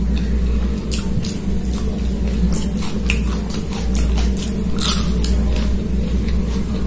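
Close-miked eating sounds: wet chewing, lip smacks and squishes of rice and chicken curry mixed by hand, with scattered short clicks, over a steady low hum.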